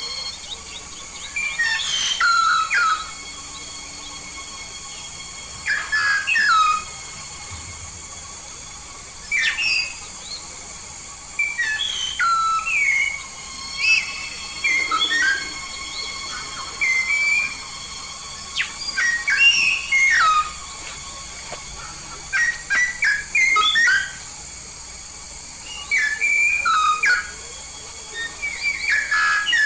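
A myna (jalak) from Papua calling in bursts every few seconds: loud whistles and short chattering notes, many sliding downward in pitch, over a faint steady high-pitched background tone.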